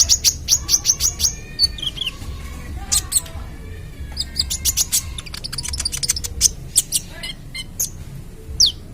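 A young kolibri ninja sunbird singing a fast run of sharp, high chirps. About seven notes a second open the song, a dense rattle of notes comes in the middle, and a single quick falling note sounds near the end.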